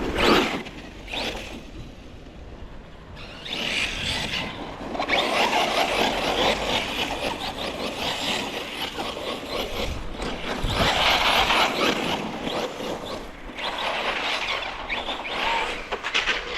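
Electric RC car driving over rough ground, with surges of tyre and drivetrain noise that rise and fall over several seconds. There are a couple of sharp bangs near the start.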